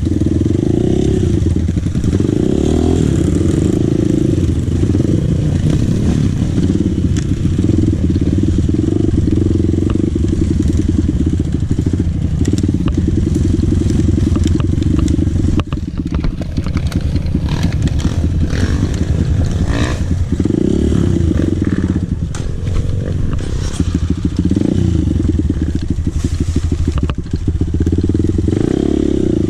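Dirt bike engine running under load, its pitch rising and falling repeatedly with the throttle. Scattered knocks and rattles come through, mostly in the middle, where the engine briefly dips about halfway through.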